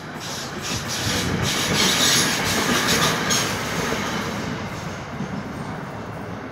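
Electric commuter train passing on the line: the rumble and wheel noise swell to a peak about two to three seconds in, then fade away.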